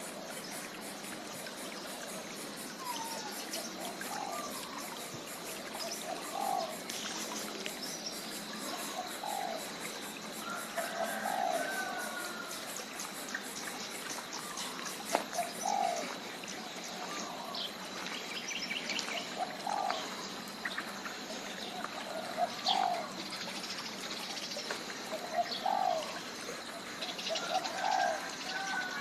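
Birds calling: a short, low, upward-sliding call repeated every second or two, with fainter higher chirps over a steady background hiss.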